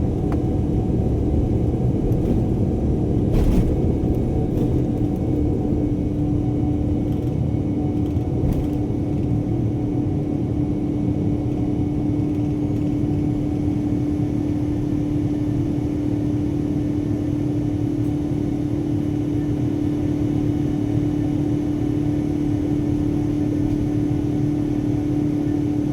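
Jet airliner cabin noise: a steady low rumble of engines and airflow with a constant hum, and a single brief click about three and a half seconds in.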